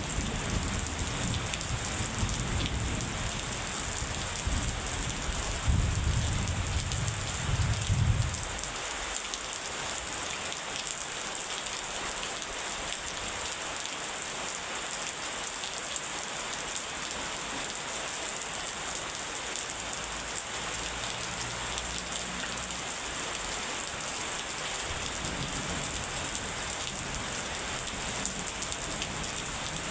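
Steady heavy rain falling, with a low thunder rumble that swells and then dies away about eight seconds in, leaving only the rain.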